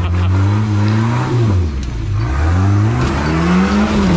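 Off-road rig's engine revved twice under load, the pitch climbing and dropping each time.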